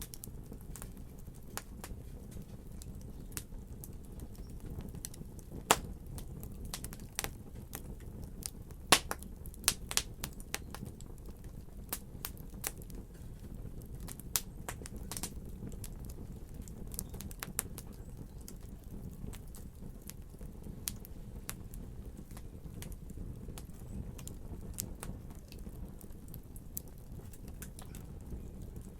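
Wood fire crackling in a fireplace: a steady low rumble of flames with scattered sharp pops and snaps, a cluster of louder pops in the first third.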